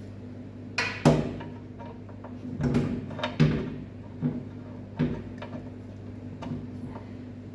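Irregular knocks and clatters of hand tools against the metal of a mower deck's caster, a handful of sharp hits spread through the first two-thirds, over a steady low hum.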